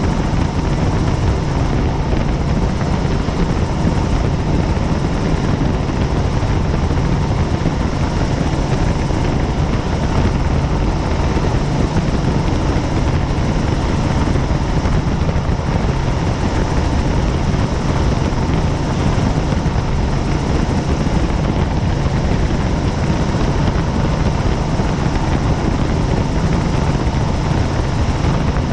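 Helicopter in flight: steady, unbroken rotor and engine noise, heaviest in the low end, with a faint steady tone above it.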